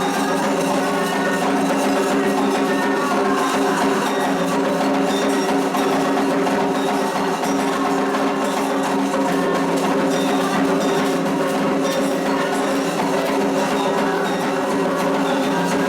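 Candomblé ritual percussion for Xangô: atabaque hand drums and an agogô bell playing a continuous rhythm, steady and unbroken.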